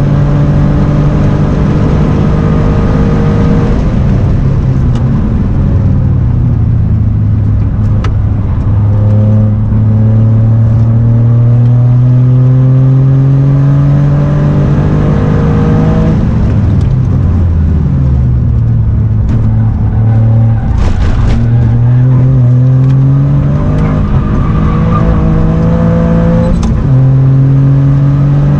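Toyota GR Yaris's turbocharged three-cylinder engine at full throttle, heard inside the cabin. It climbs in pitch under acceleration again and again, and drops back at each gear change or lift for a corner.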